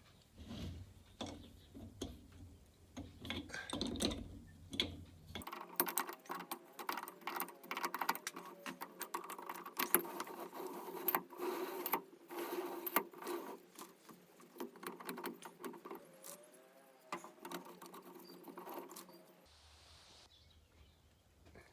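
Irregular clicks, taps and light rattles of hand work with tools and metal parts, in several short edited stretches.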